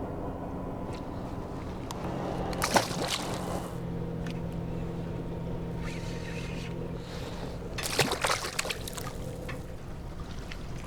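A steady low motor hum on the water, with short splashing and knocking sounds twice, about three and eight seconds in.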